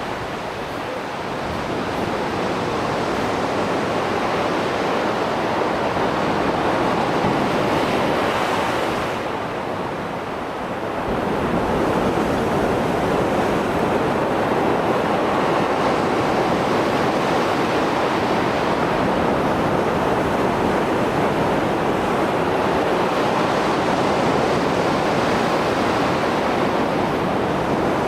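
Heavy sea surf after a storm: a continuous rush of breaking waves that eases for a moment about ten seconds in, then swells again and holds.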